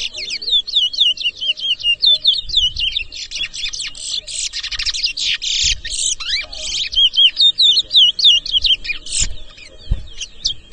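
Caged towa-towa finches in a singing race, singing fast, warbling songs of rapid, repeated high chirping notes almost without pause. Each finished song is tallied in the race.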